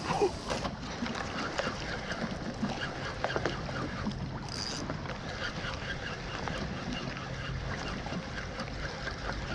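Water lapping and trickling around a canoe, with many small ticks and knocks against the hull and light wind on the microphone. A short hiss comes about four and a half seconds in.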